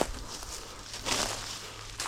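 Footsteps through forest undergrowth, with leaves and twigs rustling against the body. A sharp click right at the start and a louder brush of vegetation about a second in.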